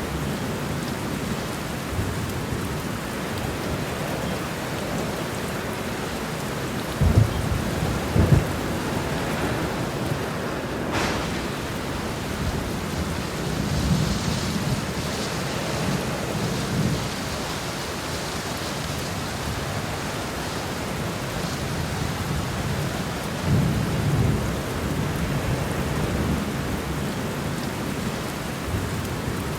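Heavy rain pouring steadily in a thunderstorm, with thunder: two sudden low booms about seven and eight seconds in, then longer low rolls of thunder around the middle and again about three-quarters of the way through.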